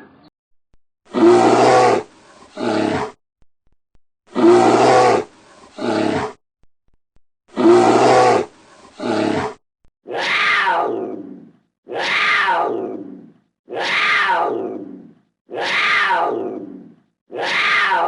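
Roaring calls of a big cat: a long call followed by a short one, repeated three times identically, then five long calls about two seconds apart, each falling in pitch.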